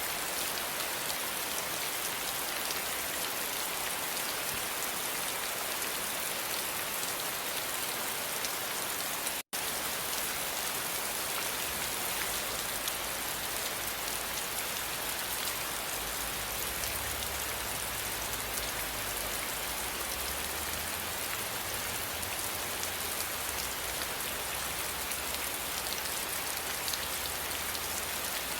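Steady rain falling and pattering on surfaces: an even hiss with no breaks in the downpour. It cuts out for an instant about nine seconds in, after which a low rumble sits underneath the rain.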